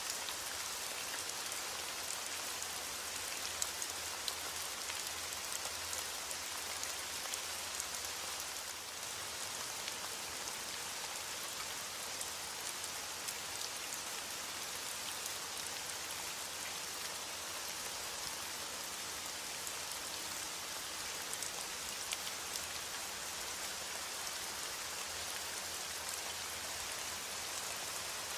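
Heavy rain beating on a window pane: a steady hiss of rainfall with many small sharp drop taps scattered through it.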